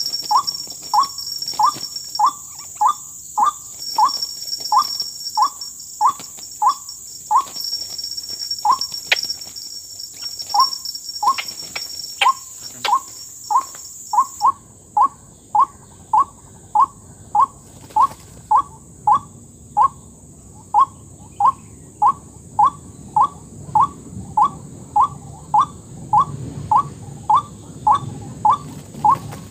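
White-breasted waterhen (dahuk) call: one short, sharp note repeated very evenly, about two a second, without a break. It is the call used to lure waterhens to the trap.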